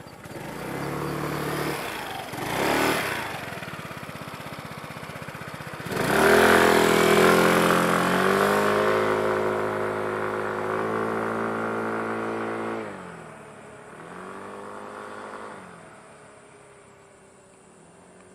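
Small motorcycle engine starting, idling and blipped once, then accelerating hard with its pitch stepping through the gears, revving again and fading away into the distance.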